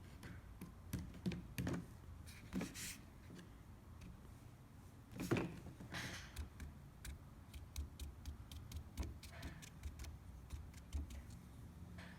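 Light scattered taps and clicks of a brush and paint supplies being handled while acrylic paint is dabbed onto a spray-foam craft, with one louder knock about five seconds in.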